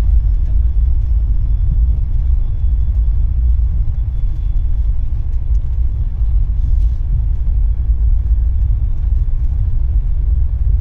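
Steady low rumble of a moving passenger train, heard from inside an air-conditioned sleeper coach.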